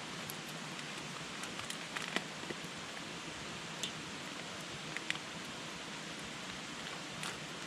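Campfire burning: a steady hiss with scattered sharp crackles and pops from the burning wood.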